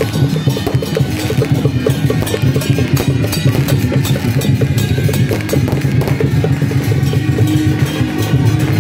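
Procession music with drums and percussion striking a quick, steady beat over sustained instrument tones.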